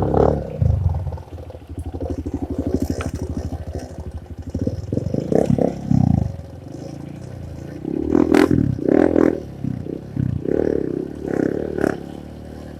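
Honda CRF150 dirt bike's single-cylinder four-stroke engine running at low revs, with louder bursts of throttle about five seconds in and again around eight to twelve seconds in.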